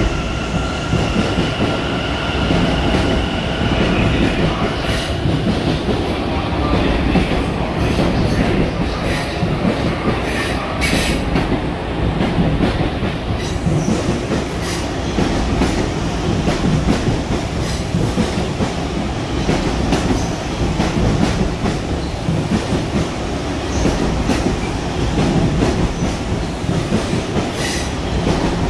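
Long Island Rail Road electric multiple-unit train rolling past close by at platform speed, wheels clattering over rail joints with some wheel squeal. A high whine is heard during the first few seconds.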